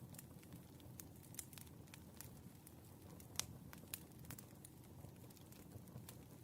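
Burning firewood crackling softly: irregular sharp pops and snaps over a low steady rumble, with one louder pop about three and a half seconds in.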